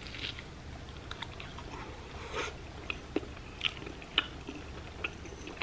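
Close-miked biting and chewing of a deep-fried ham and cheese croquette with a crushed Cheetos Puffs crust: soft mouth sounds broken by a few short, sharp crunchy crackles.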